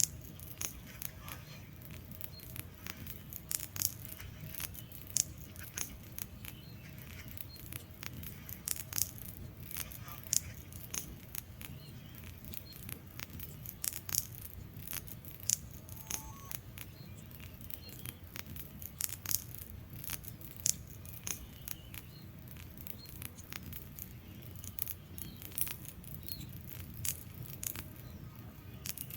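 Log fire burning in a fireplace, crackling with irregular sharp pops, several a second, over a steady low rumble of the flames.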